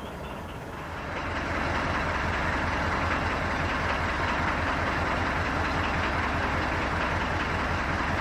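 Narrowboat engine running steadily, picking up about a second in as the boat gets under way.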